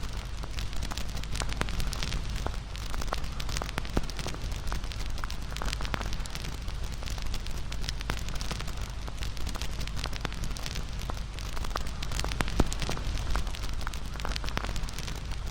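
Wood fire burning, with frequent small crackles and pops over a steady low rumble; one sharper pop about twelve seconds in.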